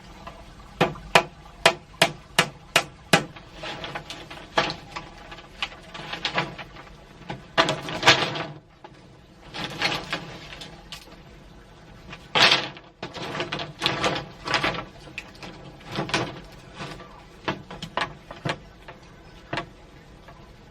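Repeated sharp striking: a quick run of about seven blows near the start, then irregular knocks with some longer scraping or rustling bursts.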